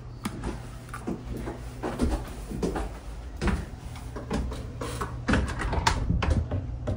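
Irregular footsteps and thumps of a person dancing around in circles, over a steady low hum.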